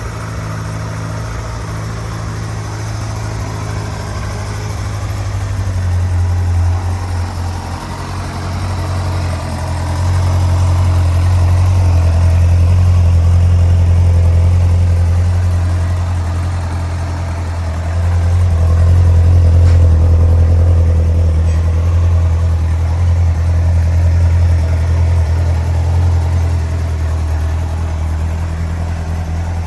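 Yamaha R1 sport bike's inline-four engine running near idle, its level swelling and easing a few times.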